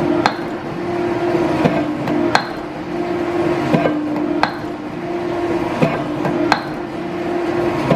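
Hammer blows on a freshly welded mild steel plate engine base, straightening its bottom to take out weld distortion. The sharp ringing strikes come in pairs, about every two seconds, over a steady hum.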